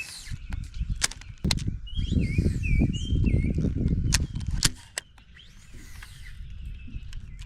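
A bird chirps in short repeated curling notes. A loud low rumble runs through the middle seconds, with scattered sharp clicks.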